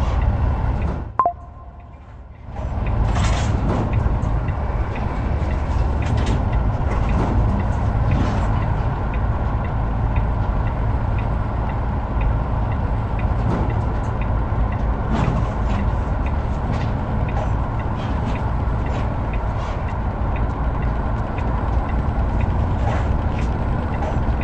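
Heavy truck underway with a heavy load: a steady engine and road rumble with scattered small knocks and rattles. About a second in there is a short high blip, and the rumble drops away for a second or two before it returns.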